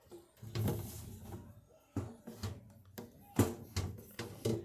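A handful of soft, irregular knocks and rustles, about seven over the few seconds: hands handling things close to the microphone.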